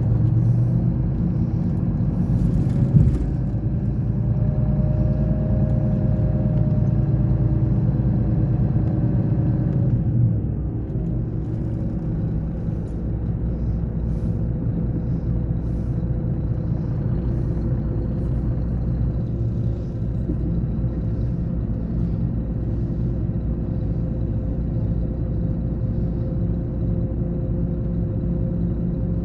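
Scania K420 coach's diesel engine running steadily. There is a sharp knock about three seconds in, and around ten seconds in the engine eases off and runs a little quieter for the rest.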